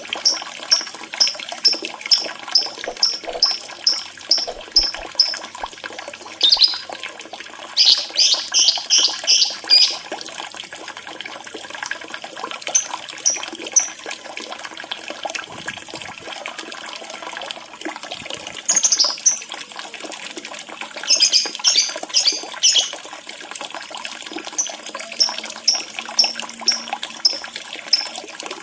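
Lovebird lure recording: shrill lovebird chirps, given in quick runs of about two a second and in short dense bursts, over a steady background of trickling running water.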